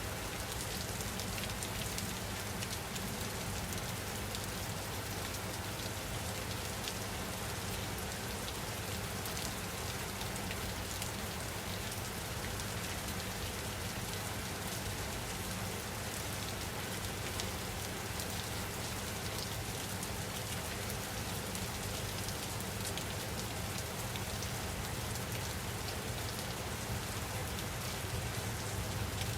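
Steady rain falling, with a dense patter of fine drop ticks over an even hiss and a low rumble beneath.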